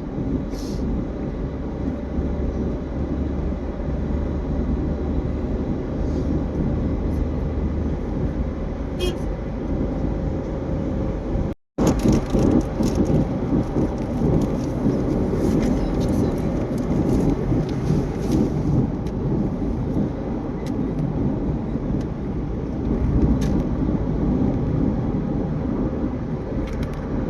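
Steady road and engine noise heard inside a moving car, with a brief total dropout a little before halfway where the recording cuts.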